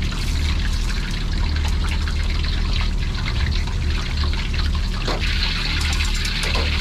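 Steady hissing and fine crackling over a low, unevenly pulsing machine rumble: the running noise of a busy food truck kitchen.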